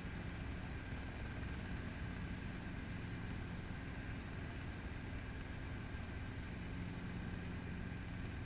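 Training helicopter in flight, its engine and rotors making a steady drone with a few constant low tones and no change in pitch.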